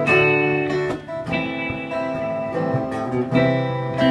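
Guitar playing chords between sung lines of a song, a new chord struck about once a second.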